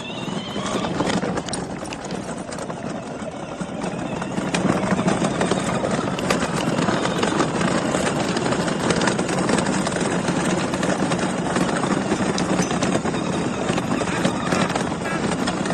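A 6V electric kids' ride-on toy truck driving, its small motor humming steadily while the hard plastic wheels rattle and clatter over the ground. It speeds up over the first few seconds, then runs on steadily.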